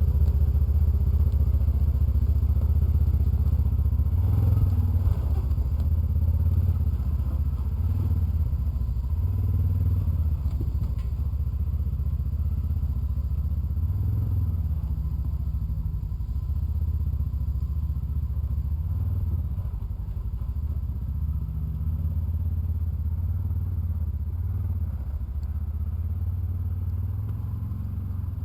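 Polaris Ranger side-by-side utility vehicle running steadily while driving, a low engine hum with a few light knocks and rattles. It grows gradually quieter.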